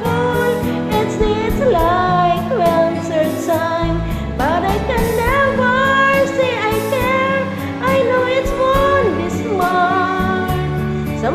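Female voice singing a gliding, wavering melody over a pop love-ballad backing track of held chords and a steady, even beat.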